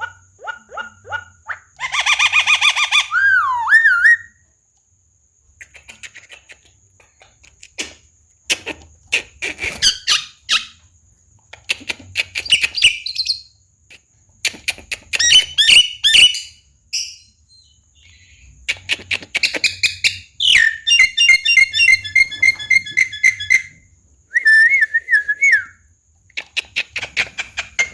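Javan myna (jalak kebo) singing a varied song: gliding whistles, harsh rasping notes and rapid rattling trills, in bursts with short pauses between them.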